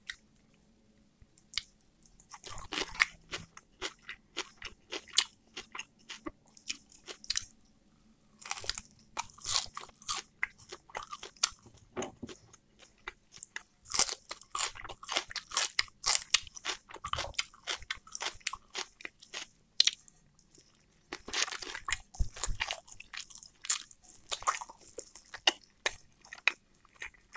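Close-miked chewing and mouth sounds of a person eating soft oven-roasted chicken: runs of short wet clicks from the jaw and lips, broken by a few brief pauses between mouthfuls.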